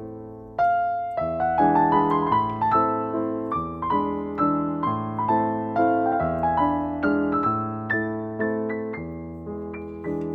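Background piano music: a melody of struck notes over low bass notes that change every second or two.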